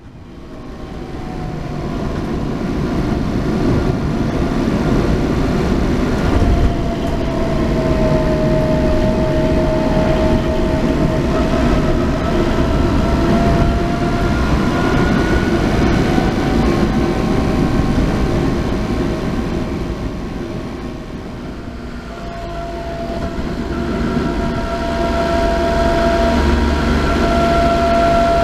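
Car under way with its transmission whining: several whining tones over the running noise, drifting slowly in pitch with speed and easing off briefly about three quarters of the way through. This is the abnormal gearbox noise being treated with a molybdenum additive.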